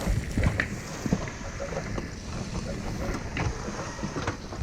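Steady rumbling noise on the microphone with scattered irregular knocks and clicks.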